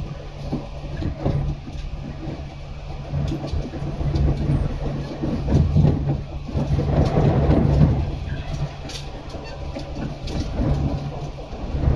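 115-series electric train running on the line: a steady low hum from the motors and running gear, with occasional clicks of the wheels over rail joints. It swells louder for a few seconds in the middle.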